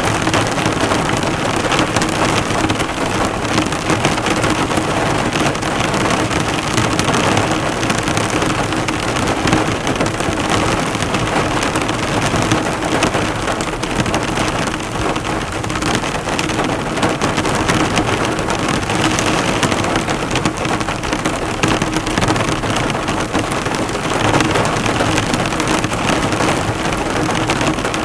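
Heavy rain falling hard on a car, a dense, steady patter of drops bouncing off the hood.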